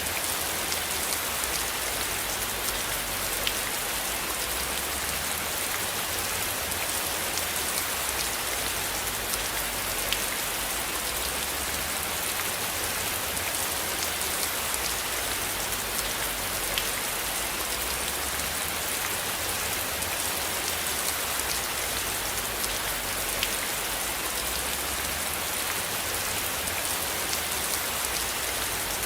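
Steady rain falling, an even hiss with occasional sharper drop ticks and a low, wavering rumble underneath.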